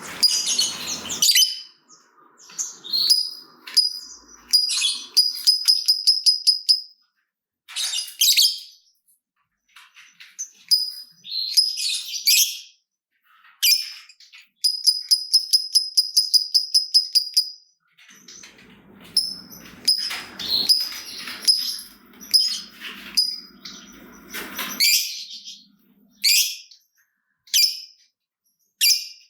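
Lovebirds calling: shrill, high chirps and rapid trains of clicking notes, several a second (the 'ngetik' and long 'ngekek' chatter), broken by short pauses.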